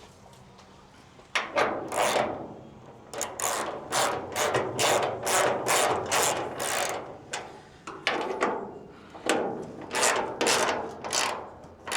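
Hand ratchet driving hood hinge bolts, clicking in quick strokes of about two to three a second, in runs with short pauses, starting about a second and a half in.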